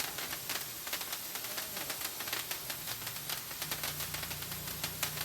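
Large handheld sparklers burning with a steady hiss and a dense, rapid crackle.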